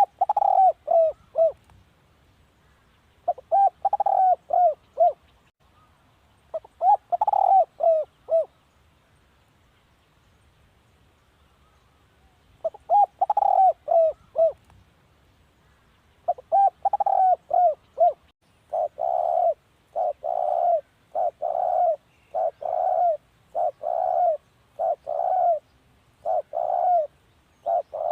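Spotted dove cooing: short phrases of four or five coos, repeated every few seconds, then about two-thirds in a quicker, steady run of longer single coos.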